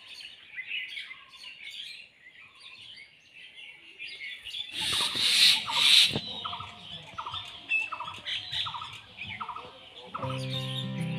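Outdoor birdsong: scattered high chirps, then a short call repeated about twice a second in the second half. A loud rush of noise lasting about a second and a half breaks in around the middle, and music comes back in near the end.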